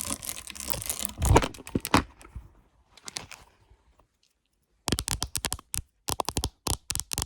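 Crinkling and crackling with two sharp cracks in the first two seconds, then after a pause, quick runs of sharp fingernail taps on a phone case.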